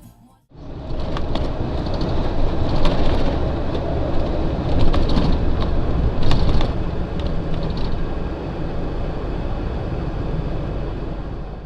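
Steady rumble of road and engine noise from a moving vehicle, as a dashcam records it, starting about half a second in, with several short sharp knocks, the loudest around the middle.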